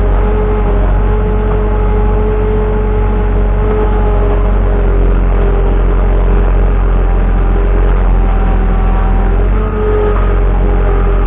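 Skid steer's diesel engine running steadily at working speed, with a steady whine over the engine rumble and slight rises and falls in pitch.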